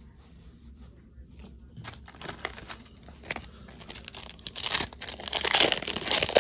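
A trading card pack's wrapper being torn open and crinkled. It starts about two seconds in and gets louder toward the end.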